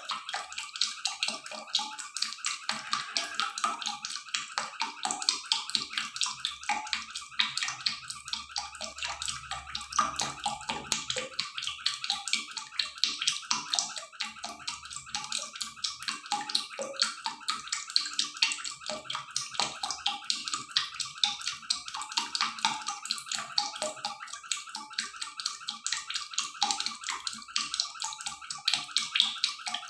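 Duck wings with onion, garlic and ginger sizzling in a hot wok: a steady crackling hiss.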